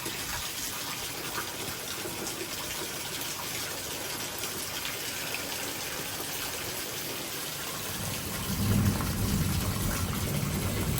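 Heavy thunderstorm rain pouring steadily. About eight seconds in, a low rumble swells and stays louder to the end.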